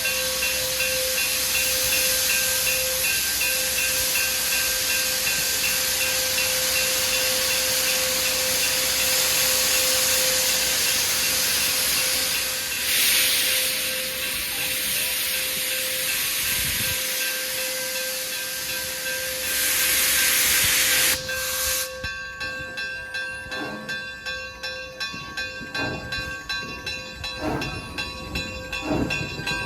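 Steam locomotive hissing steadily as steam escapes, with two louder blasts of steam about 13 and 20 seconds in. After an abrupt cut near the end, a train rolls by with a regular clicking of wheels over rail joints.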